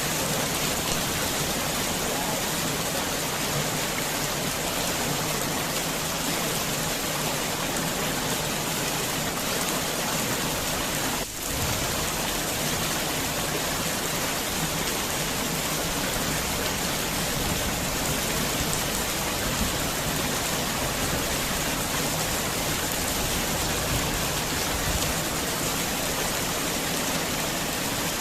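Heavy rain falling steadily, an even, unbroken hiss. It dips briefly once, a little over a third of the way through.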